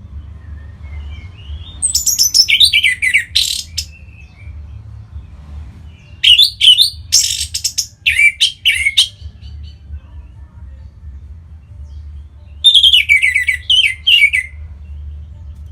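Orange-headed thrush singing in three bursts a few seconds apart, each a rapid run of falling whistled notes mixed with harsh scratchy notes. A steady low hum runs underneath.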